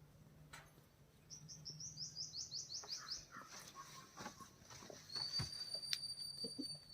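A bird chirping: a quick run of about ten falling high chirps, then a single steady high whistled note held for about two seconds near the end, with a few faint clicks.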